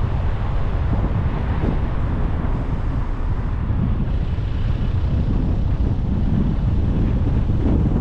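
Steady rumble of a car driving, with road noise and wind buffeting the microphone.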